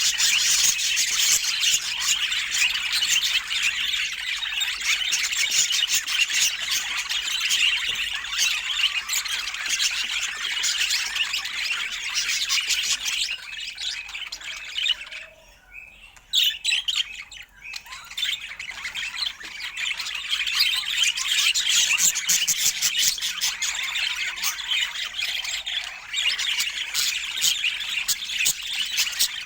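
Budgerigars chattering: a dense, continuous stream of fast high chirps and warbles, with a lull of about three seconds midway before the chatter resumes.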